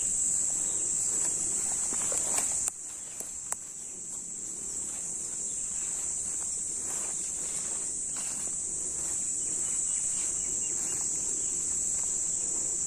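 Steady high-pitched insect chorus, with scattered faint clicks and rustles. About three seconds in the whole sound drops suddenly, then builds back up.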